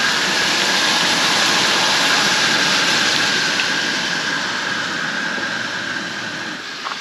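Homemade potato chips frying in a pan of hot grease: a loud, steady sizzle that eases a little near the end.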